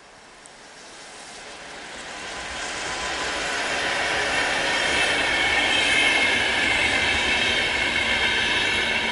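Train approaching and passing close by, growing louder over the first four seconds and then staying loud, with a high whine of several steady tones over the rumble.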